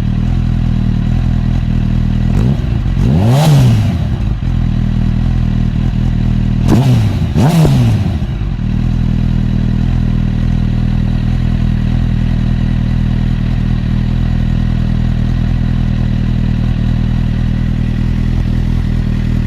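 Honda CB1000 inline-four engine idling through an aftermarket Devil exhaust, blipped three times: once about three seconds in and twice in quick succession near seven seconds. Each blip rises and falls straight back to a steady idle.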